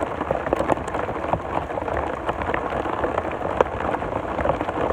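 Hard rain: a dense, steady patter of many drops striking close to the microphone.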